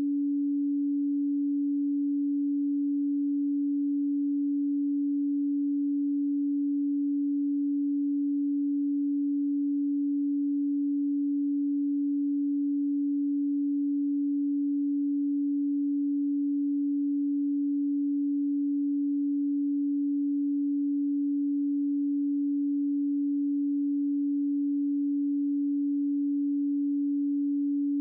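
A pure sine tone at 285 Hz, held steady at one pitch and level without a break: the 285 Hz Solfeggio frequency used for meditation.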